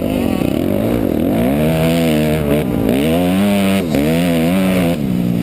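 Motocross dirt bike engine under hard riding, its pitch climbing and dropping about four times as the throttle is opened and chopped or the bike shifts gears. Near the end it settles to a steadier, lower pitch.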